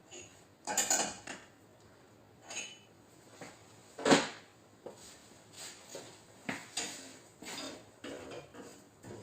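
Metal dent-repair tools clinking and knocking on sheet metal during paintless dent repair, in irregular taps and clatters, with one sharper, louder knock about four seconds in.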